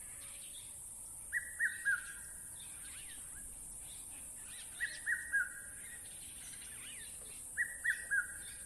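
A bird repeating a call of three short, hooked whistles, three times a few seconds apart, over fainter chirps from other birds and a steady high hiss.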